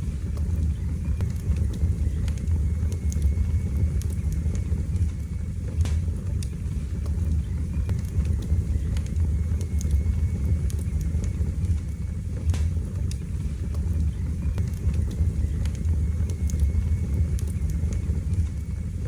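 Wood fire burning in a fireplace: a steady low rumble of the flames with scattered crackles and pops, a few sharper snaps standing out, one about six seconds in and one about twelve seconds in.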